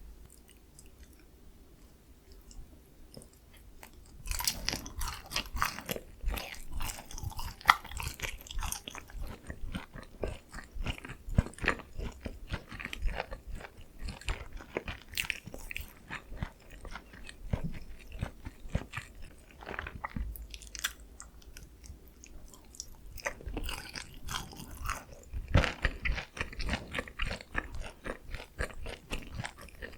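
Close-miked biting and chewing of sticky, sauce-glazed Korean fried chicken, the crisp coating crackling in dense bursts. It begins about four seconds in after a near-quiet start.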